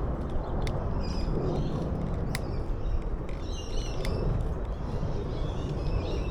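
Small birds chirping in short bursts, again and again, over a steady low rumble of wind and a moving bicycle, with a few sharp clicks.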